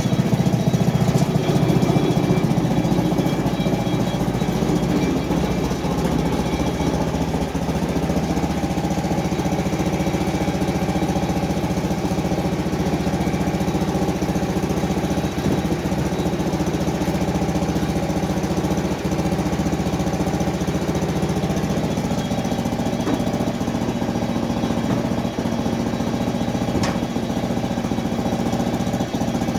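Small gasoline engine of a Frontier OS23 portable sawmill running steadily, a little louder in the first few seconds.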